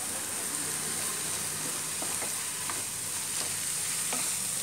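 Chopped onions, tomato and green chillies frying in oil in a frying pan: a steady sizzle, with light scraping and clicks from a wooden spatula stirring them.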